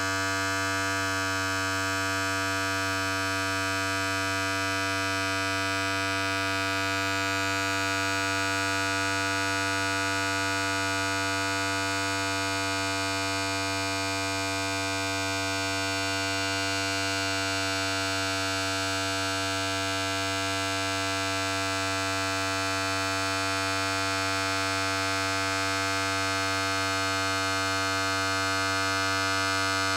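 Electric hair clipper running continuously: a steady buzz with a strong low hum and a stack of higher tones, unchanging in pitch and level.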